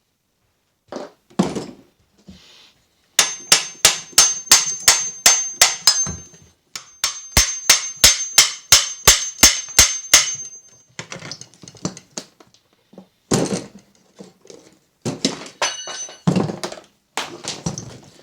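A hammer striking metal in two quick runs of about ten blows each, roughly three blows a second, each blow with a high metallic ring. These are followed by scattered irregular knocks and clatter.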